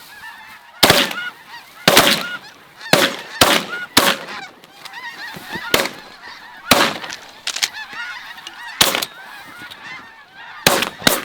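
A ragged volley of about ten shotgun blasts from several shooters, irregularly spaced, over a continuous honking chorus of snow geese.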